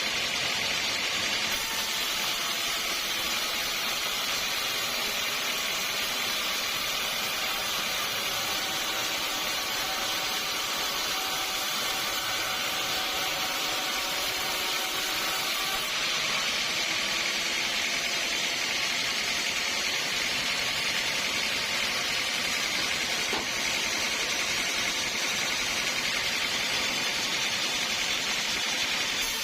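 Sawmill saw cutting through a large teak log: a steady, high hiss that shifts in tone about a second and a half in and again about halfway through.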